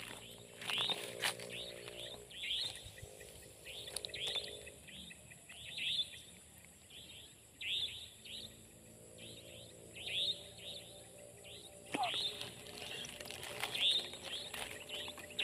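Birds chirping: short, quick calls repeated about once a second, often two close together. A low steady hum sounds under the first few seconds and again near the end.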